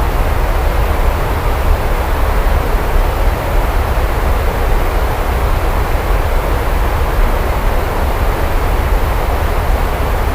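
Steady heavy rain with a constant deep low rumble under it; no separate thunderclap or change.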